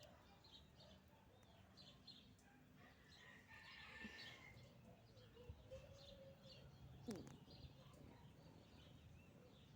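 Near silence with faint, scattered bird chirps repeating throughout, and a brief soft knock about seven seconds in.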